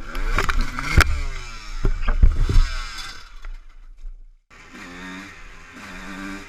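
Dirt bike engine revving, its pitch rising and falling, with sharp knocks about one and two seconds in. The sound cuts off just after four seconds and a steadier engine note follows.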